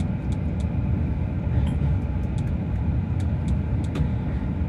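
Steady low rumble of a JR rapid commuter train running, heard from inside the passenger car, with a few faint light ticks scattered through it.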